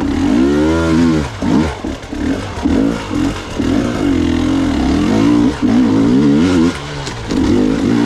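Gas Gas EX 300 two-stroke enduro motorcycle engine revving up and down in short, repeated throttle bursts as the bike is ridden slowly through tight switchback turns.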